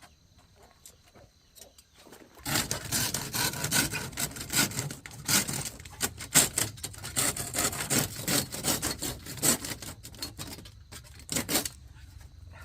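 Hand saw cutting through wood with quick back-and-forth strokes, starting about two seconds in and stopping shortly before the end, followed by one last short burst of strokes.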